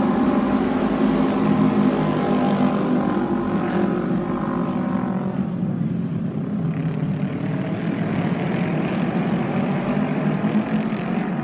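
Autorace racing motorcycles, 600cc twin-cylinder engines, running at speed around the oval track. The engine note falls in pitch as a bike goes by about four to five seconds in.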